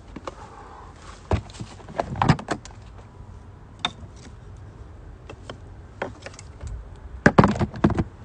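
Camp cooking gear being handled at a fire pit: a series of irregular knocks and clinks of hard objects, loudest in a quick cluster near the end.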